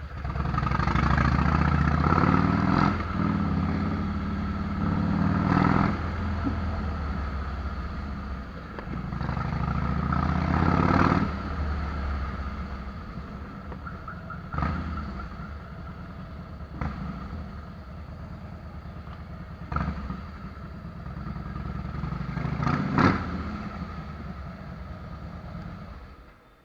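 Harley-Davidson Fat Boy's V-twin engine running through Vance & Hines fishtail exhaust pipes, idling with repeated throttle blips that rise and fall, the biggest about two, five and eleven seconds in and again near the end.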